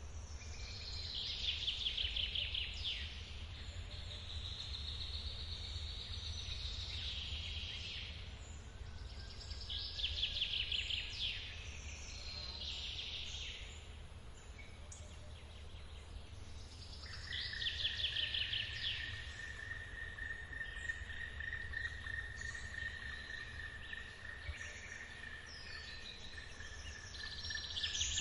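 Forest ambience: a bird sings trilling phrases again and again, a steady high insect drone starts partway through, and running water from a waterfall keeps up a low, even rush beneath.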